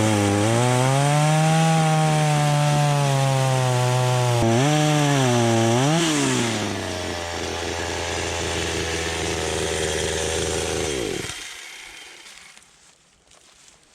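Two-stroke chainsaw running at high revs, cutting lengthwise into a damp log. Its pitch dips twice, then it runs steadier and lower before shutting off suddenly about 11 seconds in.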